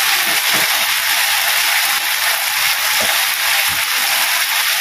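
Chicken in a sweet-soy sauce sizzling steadily in a steel wok, with a metal slotted spatula scraping and knocking against the wok a few times.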